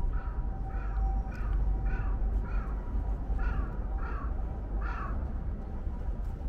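A bird calling about eight times in quick succession, the calls stopping about five seconds in, over a steady low rumble.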